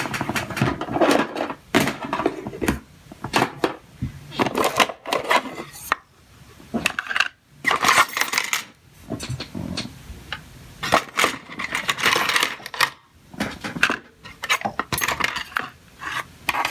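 Pliers and other small metal hand tools clinking and tapping against one another and the work surface, a busy run of irregular sharp clicks and clatters.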